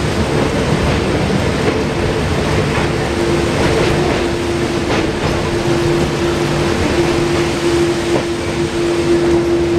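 Passenger train running at speed, heard from aboard at an open coach doorway: steady wheel and track noise with a constant drone and a few scattered clacks.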